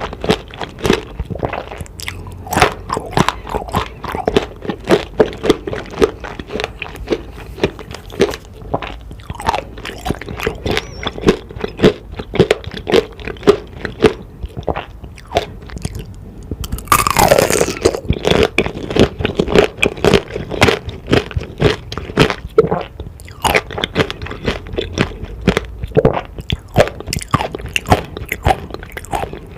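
Close-miked crunching and chewing of fruit tanghulu: the hard candied-sugar shell cracks between the teeth in many irregular sharp crunches. One louder, longer burst comes a little past halfway.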